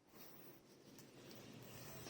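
Near silence: faint room tone with a few soft, faint ticks.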